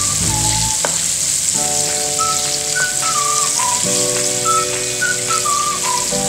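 Coated chicken pieces deep-frying in a wok of oil, a steady bubbling sizzle. A simple background tune of single notes over held chords plays over it.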